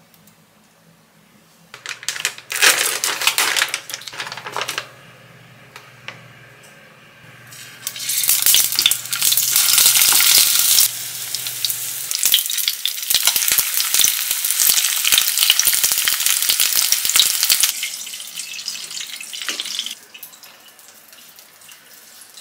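Battered squid strips frying in shallow oil in a frying pan, sizzling and crackling. A short burst comes about two seconds in, then louder, steady frying from about eight seconds until about twenty.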